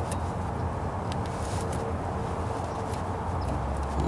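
Steady low background rumble and hum with a few faint small ticks.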